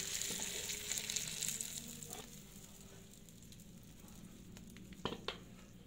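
Freshly fried chilies and shrimp still sizzling in their hot oil as they are tipped from the frying pan onto a stone mortar, the sizzle dying away over the first two seconds. Two light knocks about five seconds in.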